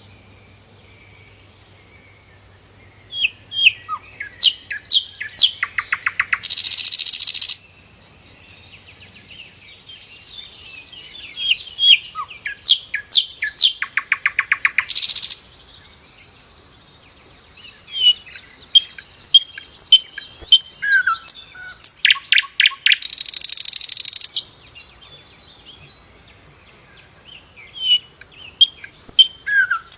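Sikatan londo flycatcher singing: sharp whistled notes and high chips broken by fast, dense rattling trills, in repeated bouts with short pauses between.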